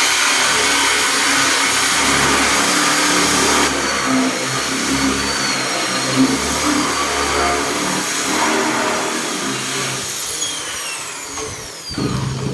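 Electric drill boring a hole for a concealed hinge in a wooden cabinet door, running steadily with a high whine, then winding down near the end with a falling pitch.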